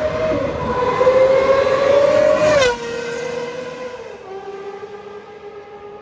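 Gordon Murray T.50's Cosworth V12 engine running at high revs, its note climbing slightly before dropping sharply in pitch and loudness about two and a half seconds in. The note steps down once more about four seconds in and fades as the car moves away.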